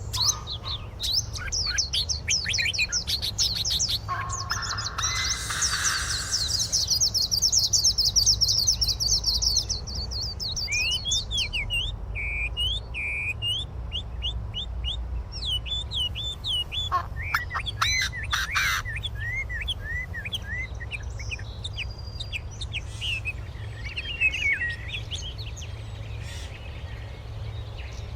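Birds calling: fast runs of high chirps for the first ten seconds or so, then a series of separate short, slurred whistled notes. A steady low rumble sits underneath.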